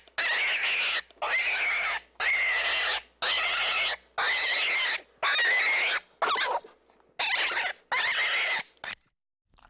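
An animal squealing harshly over and over, about one call a second, each call just under a second long, stopping near the end.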